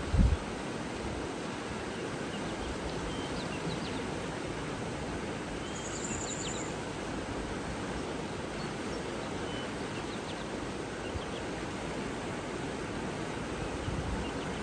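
Steady rush of flowing water with a few faint, short bird chirps over it and a brief high buzzy trill about six seconds in. A short low thump right at the start.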